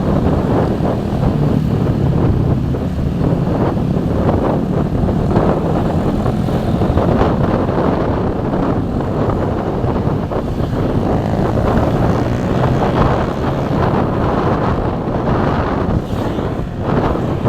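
Vehicle engine running steadily, with wind buffeting the microphone.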